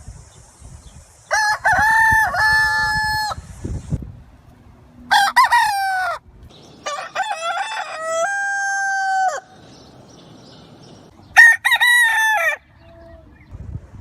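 Rooster crowing about four times, each a long drawn-out cock-a-doodle-doo, with short pauses between crows.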